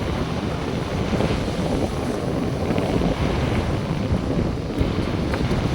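Wind buffeting the microphone over the steady wash of North Sea surf.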